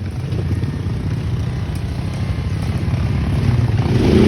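ATV engine running while riding a trail, a steady low engine note that gradually builds and rises near the end as it is given more throttle.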